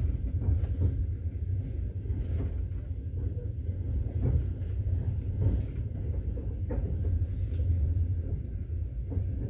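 Steady low rumble of a moving train carriage, with faint scattered knocks and rattles.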